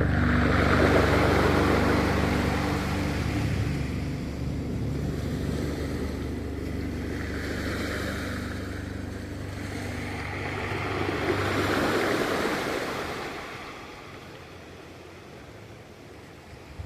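Ocean waves washing ashore in slow swells, rising and ebbing about three times and quieter near the end, under the last fading low notes of music.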